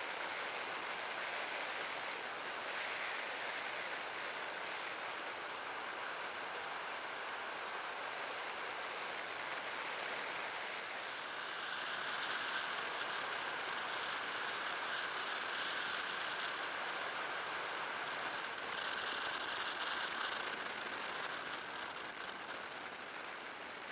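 Steady rushing noise of the electric trike on the move, with a faint high whine, typical of an electric drive, that sets in about halfway and drops out briefly twice.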